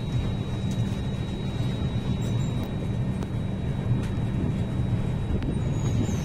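Steady rumble of a moving train heard from inside the coach, its wheels running on the rails, with a faint high steady whine over it.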